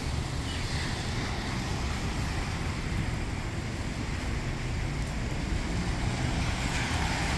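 Steady rain noise with wind buffeting the microphone in a low rumble.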